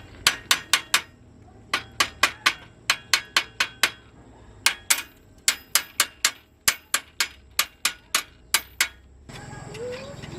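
Hammer blows on metal, struck in quick runs of about five a second with short pauses between the runs, stopping shortly before the end.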